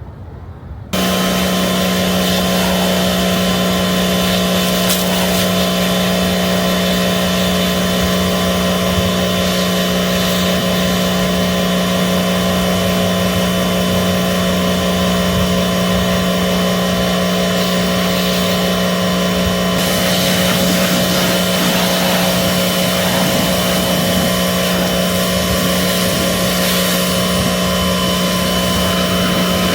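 Electric air blower for drying a car, switched on about a second in and then running steadily at full speed with a whining motor hum over a loud rush of air.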